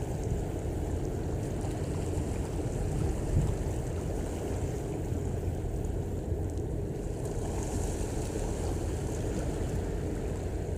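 Steady low rumble and water wash of a large container ship under way close by, with no distinct events.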